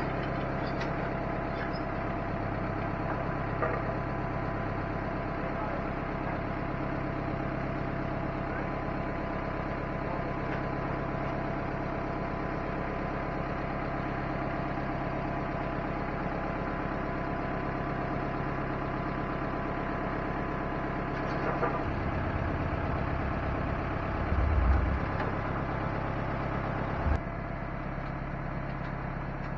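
Vehicle engine idling steadily, with a louder low thump about 25 seconds in.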